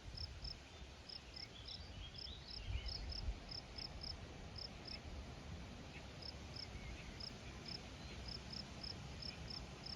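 Insects chirping outdoors: short, high chirps repeating evenly about two to three times a second, over a low rumble, with some brief higher twittering in the first few seconds.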